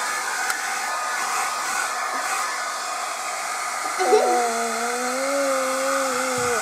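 Handheld hair dryer blowing steadily. About four seconds in, a long, steady pitched note joins it and holds to the end.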